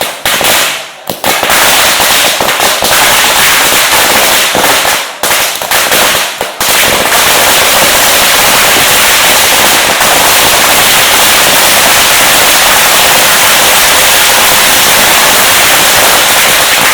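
A long string of firecrackers going off, very loud: rapid cracks with brief gaps for the first six seconds or so, then merging into one continuous dense crackle.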